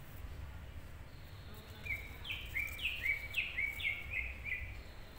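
A bird singing a quick phrase of about five repeated two-note figures, each a short lower note followed by a higher note that falls, starting about two seconds in and lasting under three seconds, over a steady low background rumble.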